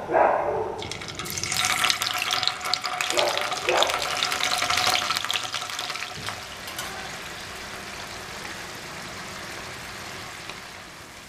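Paneer cubes sizzling and crackling in hot oil as they are laid into the pan one by one. The sizzle is loudest over the first few seconds and settles to a steadier, quieter frying hiss about six seconds in.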